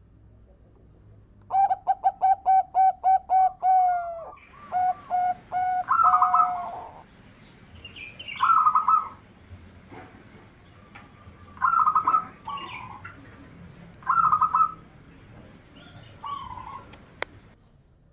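Zebra dove (perkutut) cooing. It opens with a quick run of about ten short notes, then gives four separate cooing phrases a few seconds apart. A single sharp click comes near the end.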